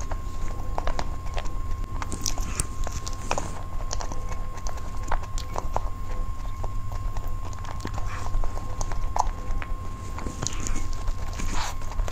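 Close-miked chewing and wet mouth clicks and smacks while eating a soft cream-filled cake, coming irregularly over a low steady hum.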